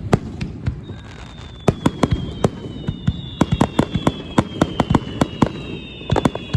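Fireworks display: a rapid, irregular run of sharp cracks and bangs, with several high whistles that start about a second in and slowly slide down in pitch.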